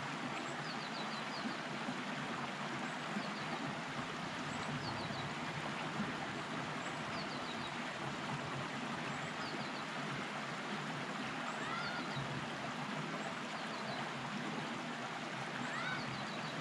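Steady rushing of a stream. Over it a small bird gives groups of three or four quick, high chirps every couple of seconds, with a few faint whistled notes in the second half.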